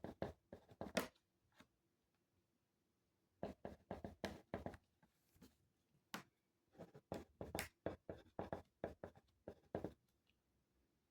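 Writing by hand on paper: clusters of short, quick, scratchy strokes with brief pauses between them, faint and close.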